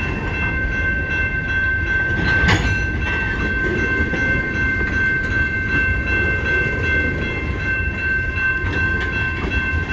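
A CN freight train's cars rolling past: a steady low rumble with a continuous high-pitched whine of several steady tones over it, and a single sharp knock about two and a half seconds in.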